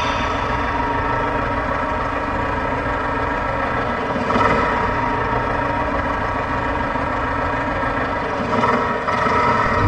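Small motor of a mini pump or tractor rig running steadily, swelling briefly about four seconds in and again near the end.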